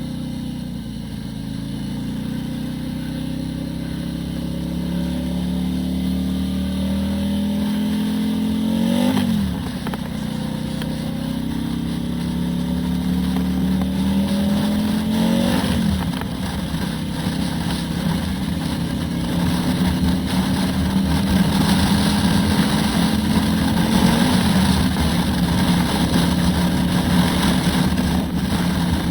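Turbocharged Harley-Davidson Road Glide V-twin accelerating under load. Its note climbs, drops sharply at an upshift about a third of the way in and again just past halfway, then climbs again with a lighter dip later on. Wind rush rises with road speed.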